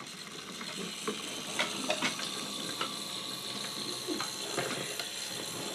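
Battery-operated Thomas wooden-railway toy engine running along the track, a quiet steady motor whir with a few light clicks.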